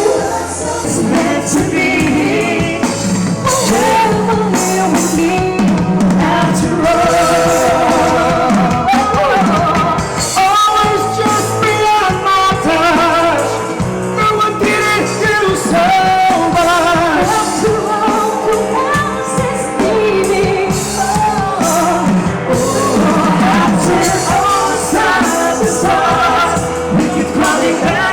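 Live band performing a pop-rock song: a singer holding wavering notes over a steady bass line and band backing.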